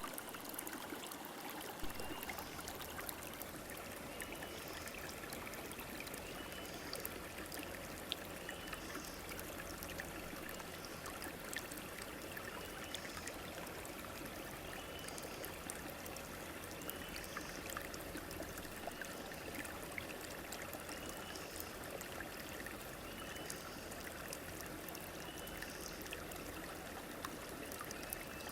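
River water flowing steadily, an even rushing and trickling. Faint short chirps recur every couple of seconds over it.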